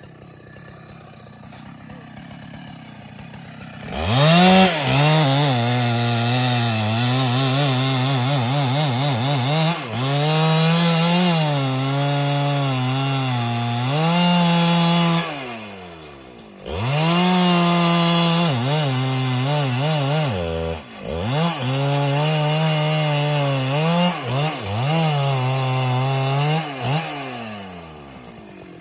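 Husqvarna 395XP two-stroke chainsaw idling, then revved up about four seconds in and cutting wood, its engine note dipping again and again under load. It falls back to idle briefly midway, cuts again, and settles to idle near the end.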